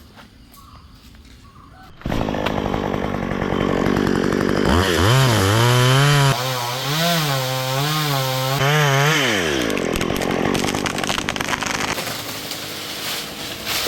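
Two-stroke chainsaw cutting wood: it comes in suddenly about two seconds in. A few seconds later the engine revs hard, its pitch wavering up and down under load as the chain bites, then drops away near the end.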